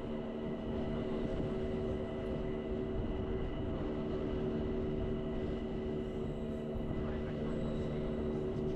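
Bernese Oberland Railway narrow-gauge electric train running at a steady speed: a steady multi-tone whine of the drive over a low rumble of the wheels on the track.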